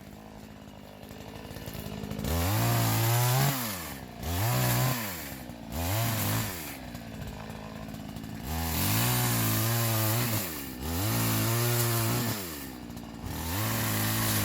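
Chainsaw idling, then revved to full throttle about six times for a second or two each, cutting up a felled tree; the engine drops back to idle between cuts.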